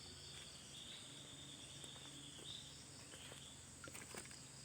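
Faint, steady chirring of insects, with a few small clicks near the end.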